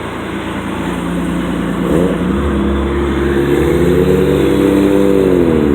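A car driving in with its engine revving up. The engine pitch rises about two seconds in, holds, and falls away near the end as the sound grows louder.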